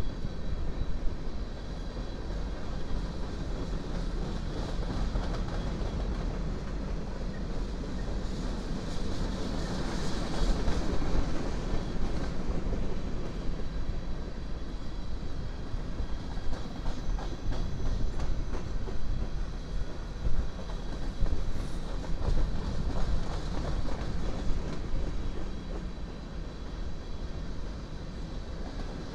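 Freight train of covered hopper cars rolling past: a steady rumble of steel wheels on rail with irregular clicks and knocks from the wheelsets, swelling a little louder a third of the way in and again past the middle.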